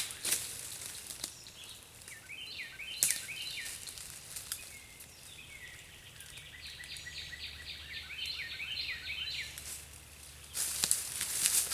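A bird singing a long run of quick, repeated chirping notes. A few sharp knocks come through it, and a louder rustling starts near the end.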